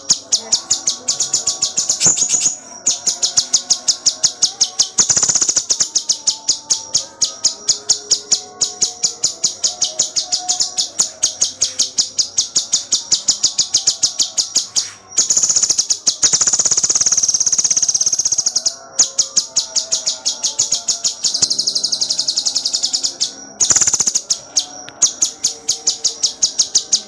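A cucak cungkok singing continuously in rapid, tightly packed high chattering notes, several per second. Its rapid-fire 'tembakan' phrases are broken by a longer unbroken trill about halfway through and another shortly after.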